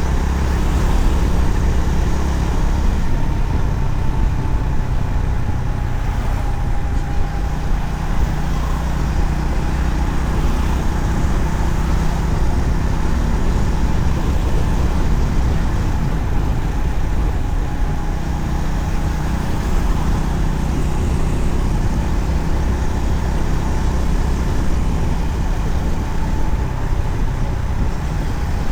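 Honda CB350RS's single-cylinder engine running at a steady cruise, under a heavy rush of wind and road noise while riding.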